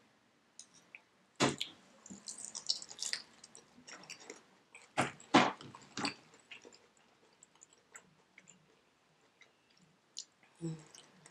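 Biting and chewing crispy fried chicken wings: sharp crunches about a second and a half in and twice around five seconds in, with smaller wet chewing sounds between.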